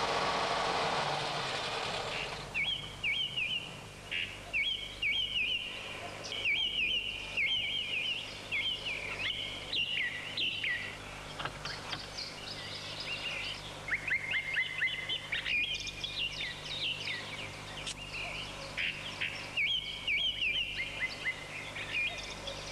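Songbirds singing in repeated short chirping phrases, some notes sweeping down, over a faint steady low hum. Music fades out in the first couple of seconds before the birdsong starts.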